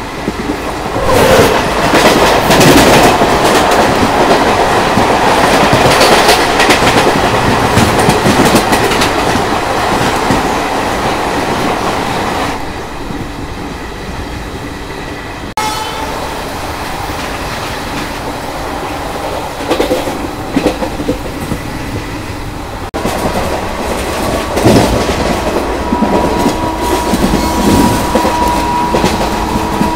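A passenger train running at speed, heard from an open doorway, with wheels clattering over the rail joints and wind rush. It is loudest for about the first twelve seconds, while a train of red coaches passes close alongside on the next track. A steady high tone joins in the last few seconds.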